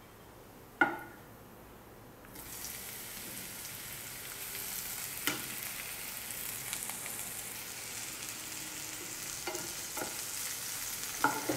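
Crumbled chhena (fresh cottage cheese) sizzling in hot mustard oil with cumin seeds in a nonstick frying pan. A sharp tap of the wooden spatula on the pan comes about a second in. The sizzle starts suddenly a couple of seconds in as the chhena goes in, and continues while the spatula stirs with occasional light knocks.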